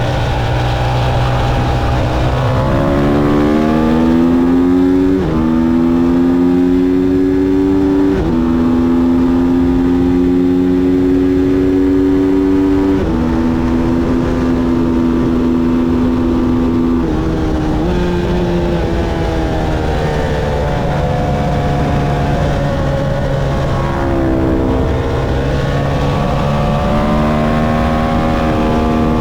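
Motorcycle engine running hard through the gears on a race track. Its pitch climbs steadily and then drops suddenly at each gear change, with several shifts through the stretch.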